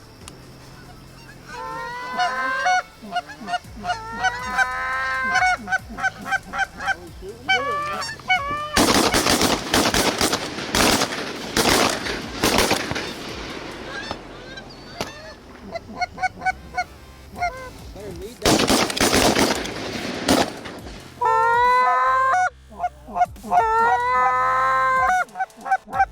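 Geese honking in repeated short, clipped calls, broken twice by several seconds of loud, dense noise.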